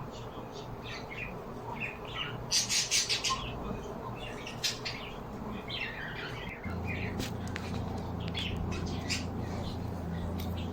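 Small birds chirping and squawking in quick, irregular calls, with a louder flurry of calls a couple of seconds in. A steady low hum starts about two-thirds of the way through.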